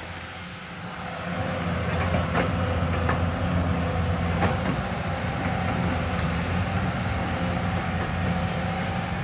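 Hyundai excavator's diesel engine running steadily under work, briefly quieter at the start before picking up again within about two seconds. A few sharp metallic clanks sound in the first half.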